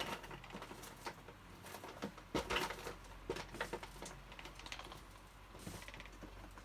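Irregular light clicks and taps of a plastic enclosure box being handled and turned over, with a louder knock about two and a half seconds in.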